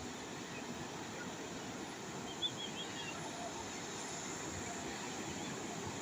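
Calm sea waves washing steadily. About two and a half seconds in, a bird gives a quick run of about five faint chirps.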